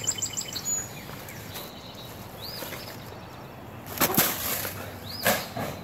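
Birds chirping: a quick series of high chirps at the start, then single calls now and then. Two short loud noises cut in about four and five seconds in.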